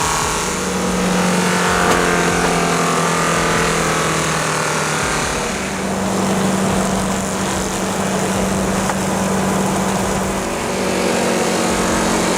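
An engine running loudly at high, steady speed with heavy mechanical noise, its pitch stepping slightly up and down a few times.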